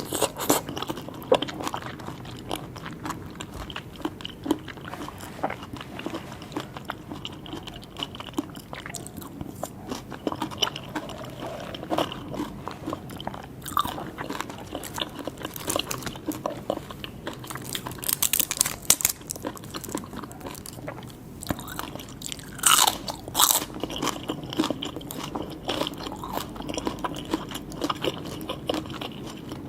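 Close-up eating sounds of a person chewing and biting into seafood: wet smacks, crunches and clicks of the mouth, in short bursts throughout, with louder bites about two-thirds of the way in.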